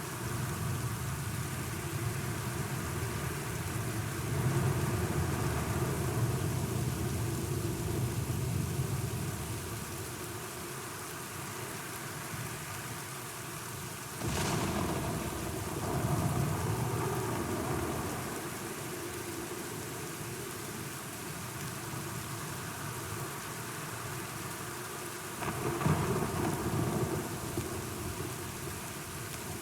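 Steady rain with thunder rolling low and long. A sharp thunderclap about halfway through is followed by a rumble, and a second clap comes near the end.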